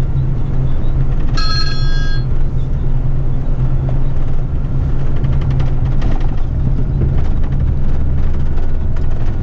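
Eight-wheeler twin-steer heavy rigid truck's diesel engine running steadily with a low hum, and a short electronic beep about a second and a half in.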